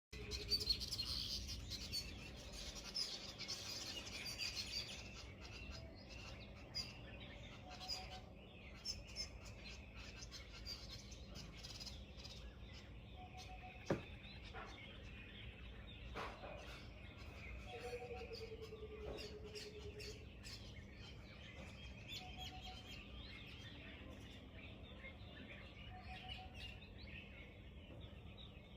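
Birds chirping and calling outdoors, thickest in the first few seconds, with scattered short whistled notes and one longer falling whistle about two-thirds of the way through.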